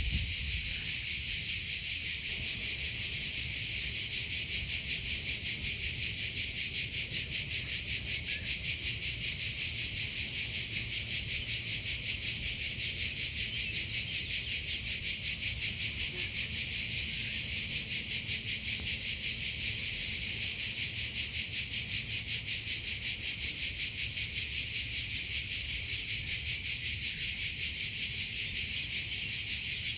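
Crickets chirping continuously in a steady, high-pitched pulsing chorus that does not let up.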